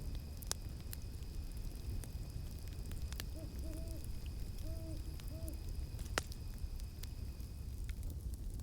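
An owl hoots four times in two quick pairs, low and mellow, over a crackling campfire with scattered sharp pops and a low rumble. A steady high-pitched insect tone runs behind them and stops shortly before the end.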